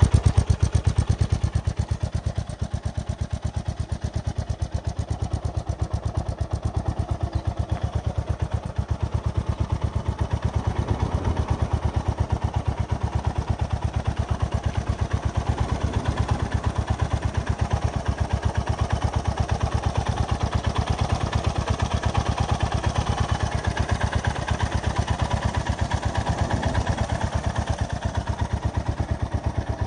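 Honda GB350S's air-cooled single-cylinder engine idling steadily through an aftermarket carbon muffler, an even, rapid train of exhaust pulses.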